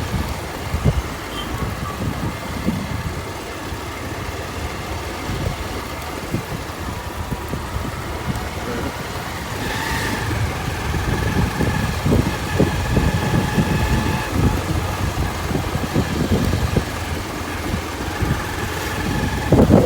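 Motorcycle engine running during a road ride, a steady low rumble, with a faint steady whine joining about halfway through.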